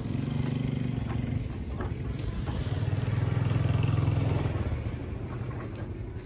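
Motorcycle engine running close by, loudest about three to four seconds in, then easing off. Under it, a small wooden cart's wheels crunch over gravel.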